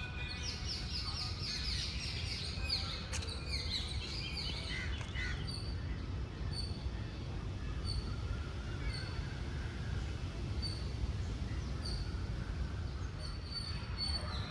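Birds chirping: a busy run of quick chirps for the first five seconds or so, then a single bird repeating a short high note about once a second. There is a steady low background rumble throughout.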